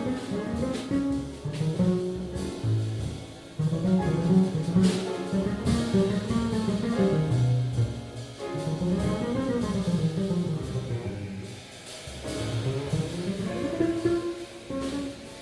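Jazz band playing an instrumental piece, its melodic lines rising and falling.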